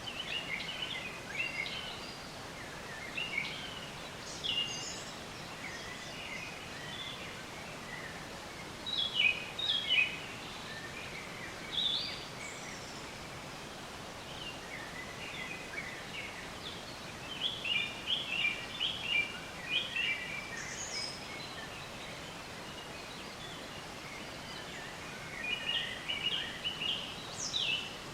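Songbirds chirping and trilling in short phrases, several overlapping in clusters, over a steady background hiss.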